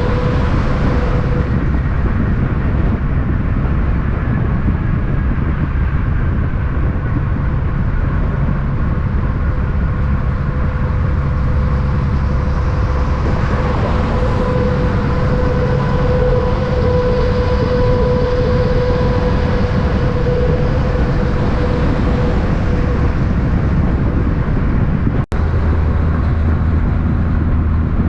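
Steady running of a vehicle on the road: a continuous low engine rumble with road noise and a steady hum, broken for a moment about 25 seconds in.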